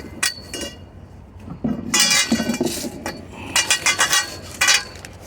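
Pieces of scrap metal clinking and clattering against each other as they are picked out and handled. The sound comes in several short bursts, the longest about two seconds in.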